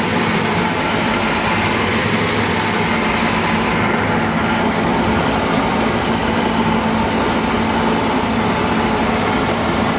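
Toyota Land Cruiser hardtop's engine running steadily.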